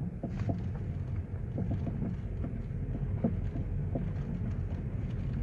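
Ford Focus III driving over a rough road: a steady low rumble with short, irregular light knocks from the front suspension. The knocking comes from worn front anti-roll bar (stabilizer) links.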